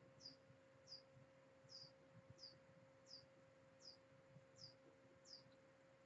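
Near silence with a faint, high, short chirp that slides down in pitch and repeats very regularly, about three times every two seconds, over a steady faint hum.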